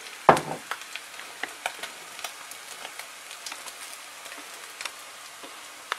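Bacon and eggs frying in a pan: a soft, steady sizzle dotted with small irregular crackles and pops. There is one brief louder sound near the start.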